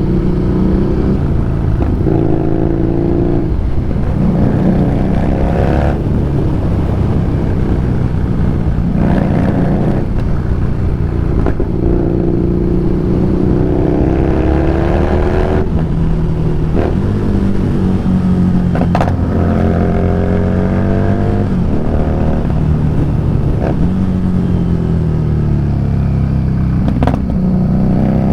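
Harley-Davidson Street Rod 750's V-twin engine under way, repeatedly rising in pitch as it accelerates and dropping back at each gear change, with the pitch falling once as it slows before climbing again near the end.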